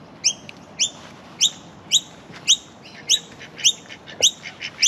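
A bird calling a short, sharply rising chirp over and over, about two a second, nine times in all.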